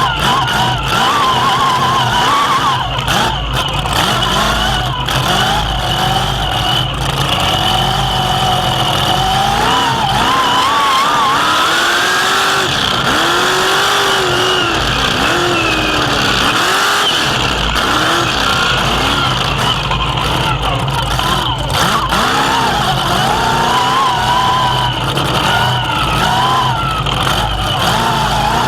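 Pro mega truck's engine revving up and down again and again as the truck is driven hard, with a steady high whine and sharp knocks now and then.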